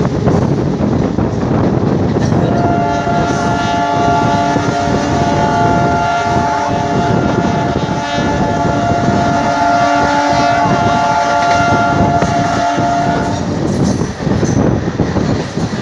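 A train running on the track with a dense rumbling clatter throughout. A locomotive horn sounds one long, steady blast from about two and a half seconds in until near the end.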